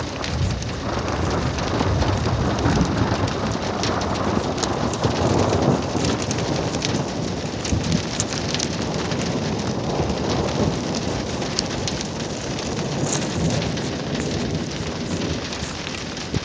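Steady rain falling, with thunder rumbling low underneath that swells over the first few seconds and again later on.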